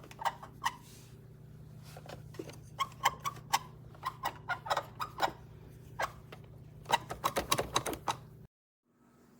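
Repeated plastic clicks, irregular and quickening near the end, from the cord rewind button of a Hoover WindTunnel Cord Rewind Pro upright vacuum being pressed again and again without the cord retracting: the automatic cord rewind is not working. A faint steady low hum runs underneath, and the sound cuts off abruptly near the end.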